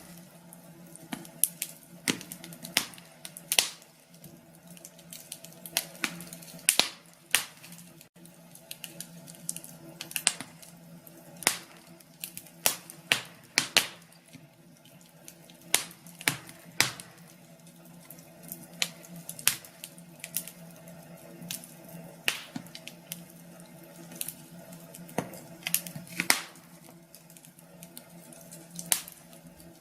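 Wood fire in a fireplace crackling, with irregular sharp pops and snaps, sometimes several in a second, over a faint steady low hum.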